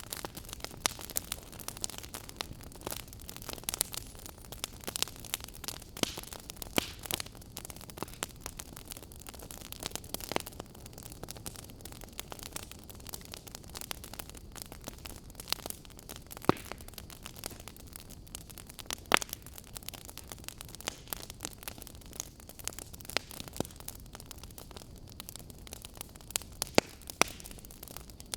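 Fire crackling: a steady low hiss with frequent irregular snaps and pops, a few of them sharper and louder.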